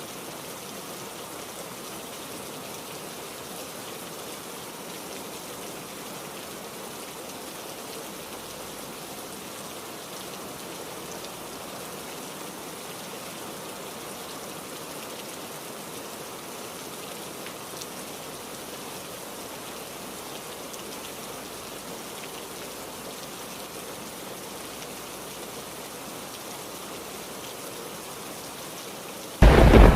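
Steady, even rain falling. Near the end a sudden loud clap of thunder breaks in.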